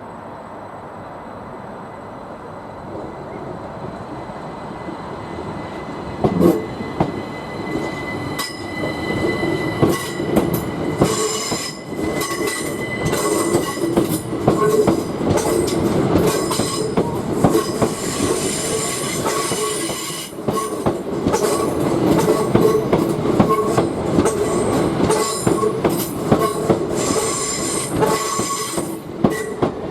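A train approaching and passing close by: wheels clicking over the rail joints, with a steady high wheel squeal over the rumble. It builds up over the first few seconds and is loud from about six seconds in.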